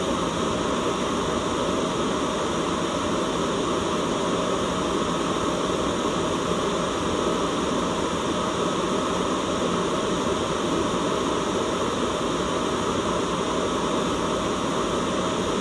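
Continuous white noise: an even, unchanging hiss, fullest in the low-middle range.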